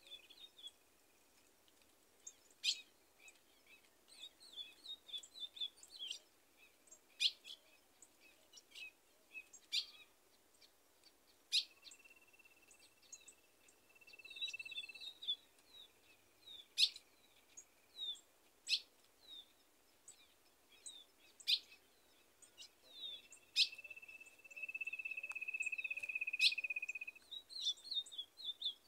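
Several birds calling: sharp single chip notes every second or two, quick runs of short high chirps, and a few long level notes held for two to three seconds, the longest and loudest near the end.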